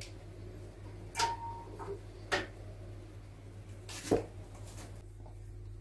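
A few sharp clicks and knocks, spaced irregularly, from handling things at a fireplace while a wood fire is being lit. They sit over a steady low hum.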